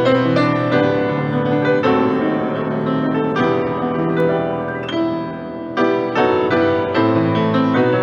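Piano music: chords and melody played at a moderate pace with frequent note changes.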